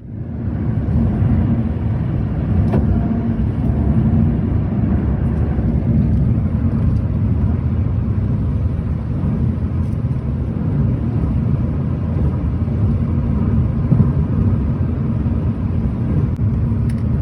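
Steady low rumble of a car in motion, heard from inside: engine and road noise without change.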